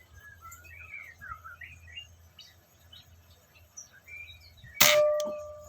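A single shot from a Tarantula JB001 air rifle, fired with its factory silencer and stock hammer spring: a sharp crack near the end, followed by a ringing tone that fades over about a second. Birds chirp faintly before it.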